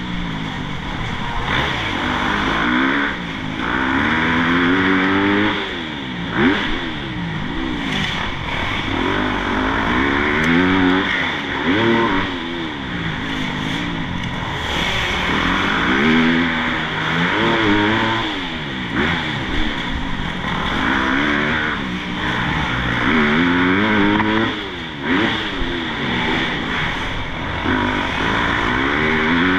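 Motocross bike engine revving hard and backing off over and over, its pitch climbing through the gears and dropping every few seconds as the rider works the throttle around the track.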